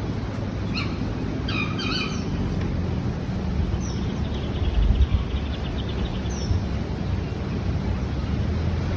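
Steady low outdoor rumble with short bird chirps over it: a cluster of chirps a second or two in, then single high calls around four and six and a half seconds.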